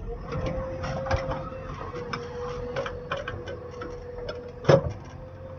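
Earth-moving machinery running with a steady whine and irregular clicks and knocks, and one loud sharp knock near the end.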